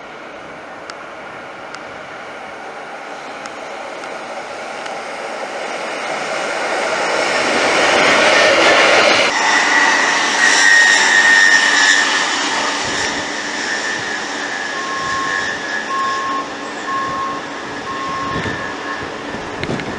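A train approaching and passing, growing steadily louder to a peak about eight to twelve seconds in, then running on loudly with a high steady ringing tone as it goes by.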